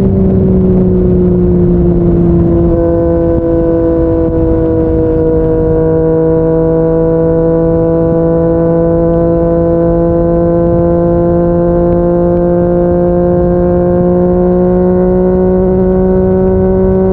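Yamaha MT-09's inline three-cylinder engine through a Yoshimura R55 slip-on exhaust, pulling steadily at cruising speed. Its note eases down slightly in the first few seconds, then creeps slowly higher.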